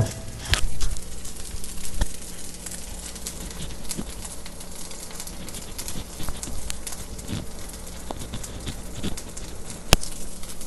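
Potato kababs shallow-frying in a little oil in a nonstick pan: a steady sizzle with scattered small crackles and pops. A sharp clack of a metal utensil set down at the very start, and another click near the end.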